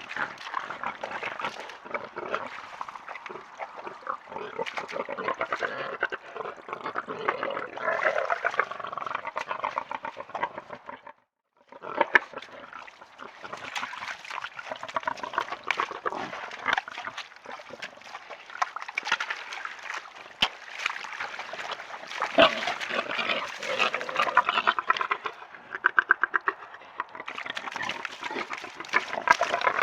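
Wild boars grunting while wallowing and splashing in a muddy pool. The sound breaks off for a moment about eleven seconds in, then carries on.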